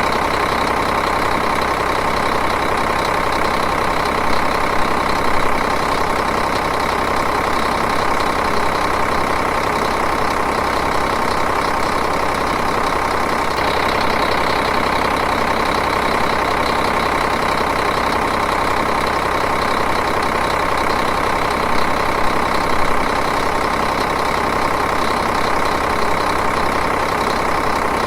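Diesel engine idling steadily, with two brief small swells in level, one about four seconds in and one near twenty-two seconds.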